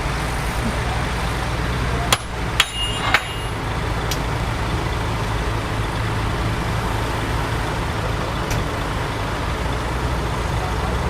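Heavy diesel earthmoving machinery running steadily, with three sharp metallic clanks about two to three seconds in.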